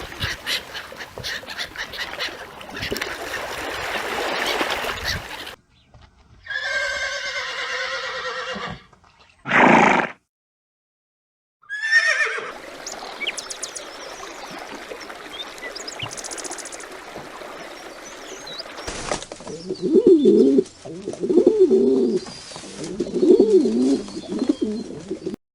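A run of separate animal recordings cut one after another: a horse whinnying, and near the end a dove cooing in three repeated low phrases, with other short animal calls between.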